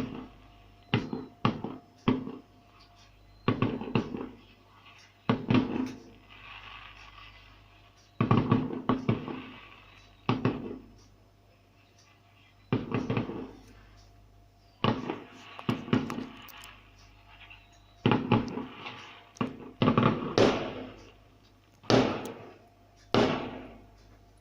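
Fireworks going off: a string of sharp bangs at irregular intervals of a second or two, some in quick clusters, each with a short crackling tail.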